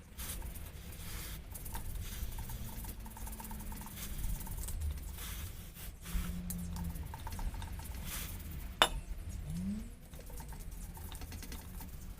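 Light metallic clinks and tapping of tools and parts being handled during a motorcycle tyre change, with one sharp click about nine seconds in.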